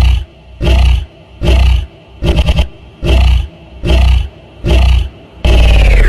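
Animal roaring in short loud bursts at a very even pace, about one every three-quarters of a second, then one longer sound near the end whose pitch drops steeply.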